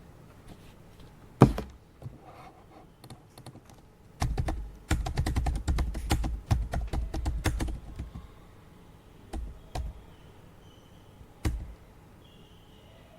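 Typing on a computer keyboard: one loud keystroke, then a quick run of keys for about four seconds, then a few scattered key presses.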